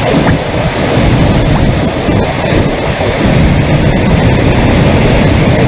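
Loud, steady rush of floodwater pouring over an overflowing tank's surplus weir, with wind buffeting the microphone.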